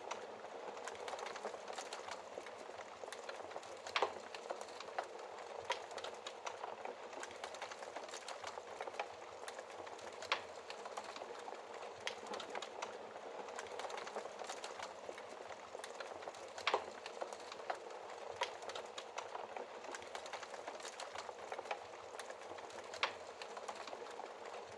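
Wood fire burning in a fireplace: a steady hiss with frequent small crackles and a handful of louder pops scattered through.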